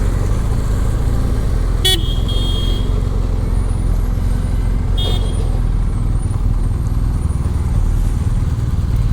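Motorcycle engines idling with a steady low rumble. A horn beeps about two seconds in, for about a second, and again briefly about five seconds in.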